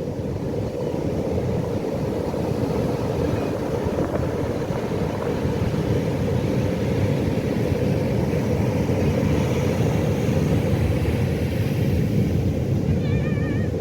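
Pacific Ocean surf: a steady low rush of breaking waves that swells slightly as it goes on. Near the end, a short warbling call sounds over it.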